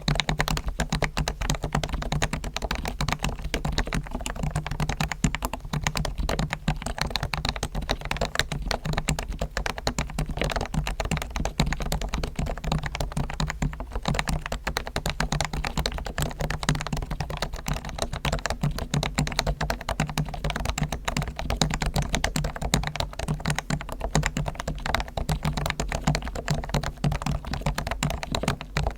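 Realforce R1 Topre electrostatic-capacitive keyboard typed on rapidly and continuously, with a brief lull about halfway through. The board has fully lubed springs and sliders (Krytox, Dri Kote), tuned stabilizers and added dampening foam, and the keycap rattle and ticking have been removed.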